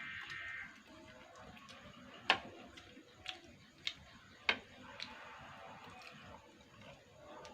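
Eating noises: about five sharp, separate clicks spaced unevenly between two and five seconds in, over a low background.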